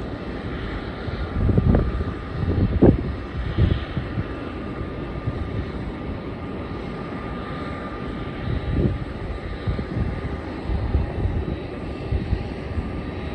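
Airliner jet engines running at a distance across the airport: a steady rumble with a faint thin whine, broken by irregular low gusty surges, the strongest about two and three seconds in.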